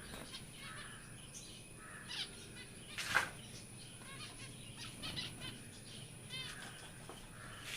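Small cage birds chirping and twittering in short high notes, with a quick trill about six seconds in. A single sharp click about three seconds in is the loudest sound.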